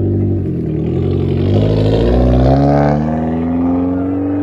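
Car engine and exhaust under way, the pitch wavering and dipping, then climbing steadily through the second half as the car accelerates.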